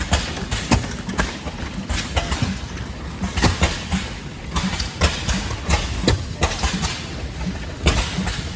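Antique stationary engines running, sharp exhaust pops at uneven intervals over a low rumble.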